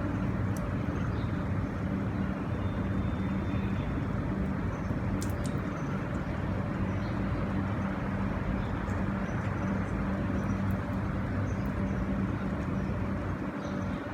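Steady road traffic noise with a constant low engine hum.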